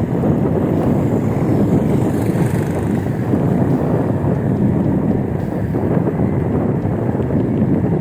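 Steady low rumble of wind buffeting the microphone on a moving e-bike, mixed with road noise.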